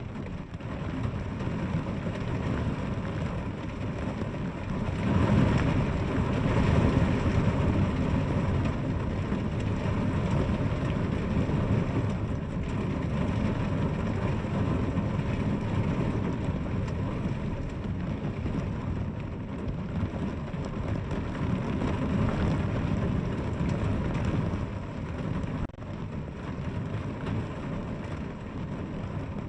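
Steady heavy rain, a continuous rushing hiss with a deep low rumble, swelling louder for a few seconds about five seconds in.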